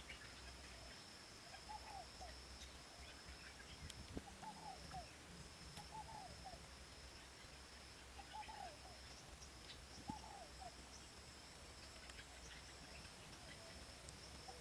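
Faint outdoor ambience: a bird gives short, arched calls every couple of seconds over a steady, high-pitched insect drone. A few faint knocks come through, the sharpest about ten seconds in.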